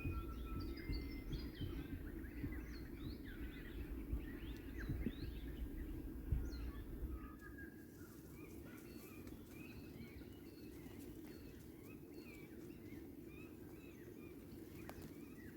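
Many birds chirping and calling, with a low rumble under them that cuts out about halfway through.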